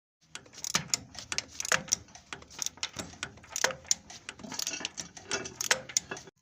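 Irregular metallic clicks and knocks from hand tools being worked on a diesel engine, a few strikes a second, some leaving a short metallic ring.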